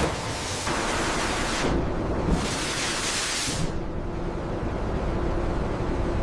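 Spray nozzles hissing in two bursts, the second ending about three and a half seconds in, followed by a steady low machine hum with a faint held tone.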